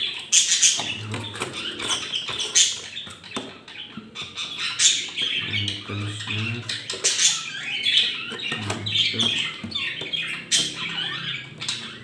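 Pet budgerigars chattering and squawking continuously, a dense mix of sharp chirps and harsher squawks.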